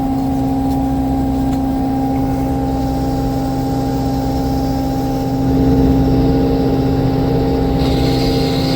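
Lube truck's diesel engine running at raised PTO speed, driving the PTO air compressor with a steady hum of several tones. Near the end the sound changes as the compressor reaches pressure and shuts itself off.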